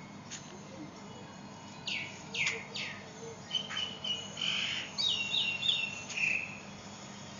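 A bird calling: a quick run of high downward-sweeping chirps starting about two seconds in, followed by short whistled notes, lasting a few seconds.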